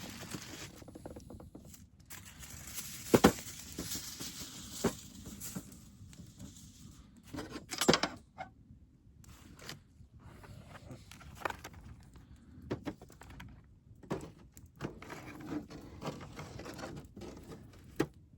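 Scattered knocks, clicks and rustles of objects being handled, with two sharp knocks about three and eight seconds in.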